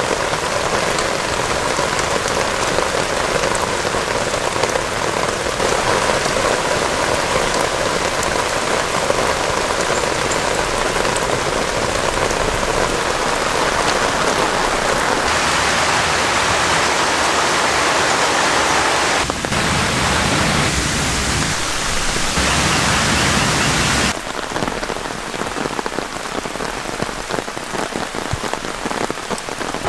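Heavy rain falling as a dense, steady hiss. Its character changes abruptly a few times, with a somewhat quieter stretch in the last few seconds.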